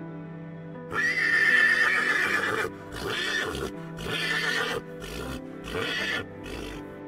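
A horse whinnying, heard over background music: one long, loud call starting about a second in, then four shorter calls that fade.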